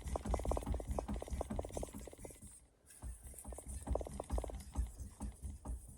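Santoku knife blade stroked back and forth on a wet soaking whetstone: quick, rhythmic scraping strokes, with a short pause about halfway through.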